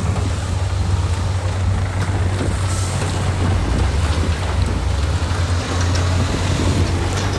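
Diesel engine of heavy earthmoving equipment running steadily with a low drone, over a noisy mechanical rattle.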